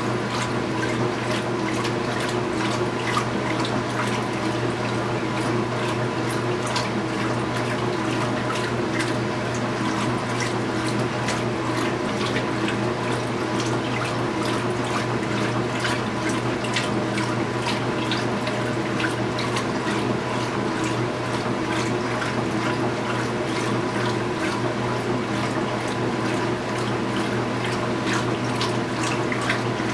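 2015 Speed Queen 8 Series top-load washing machine running mid-cycle: a steady motor hum with water splashing and trickling inside the tub.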